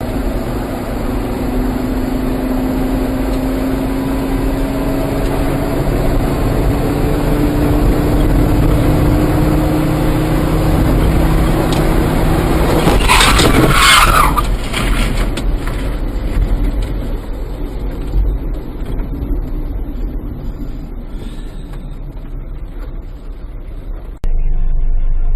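Motor vehicle engine running with road noise, its pitch rising slowly as it accelerates. About thirteen seconds in comes a loud harsh noise lasting about two seconds, after which the engine note fades.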